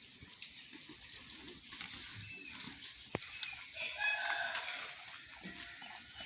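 A rooster crows once, about four seconds in, over a steady high-pitched background hiss with a few faint chirps.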